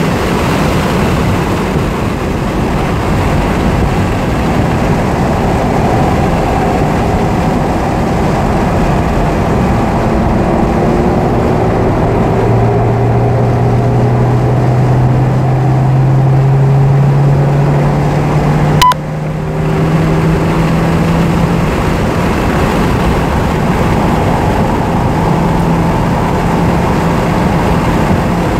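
In-cabin sound of a 1993 Porsche 968's 3.0-litre four-cylinder engine at racing speed, with heavy wind and road noise. The engine note climbs steadily as the car accelerates out of a slow corner. A sharp click with a brief drop in sound comes about two-thirds of the way through.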